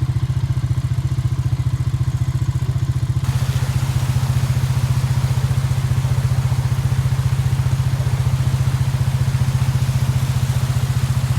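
Four-wheeler (ATV) engine running with a steady, rapid low pulse. A rushing noise joins it about three seconds in.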